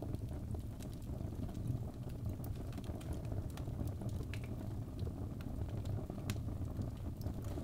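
Birch logs burning in a fireplace: a steady low rumble of flame with irregular sharp crackles and pops scattered throughout.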